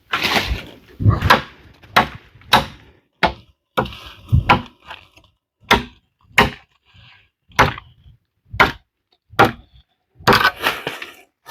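Wood being chopped by hand: a string of sharp chopping strikes, irregularly spaced about half a second to a second apart, with a couple of brief pauses.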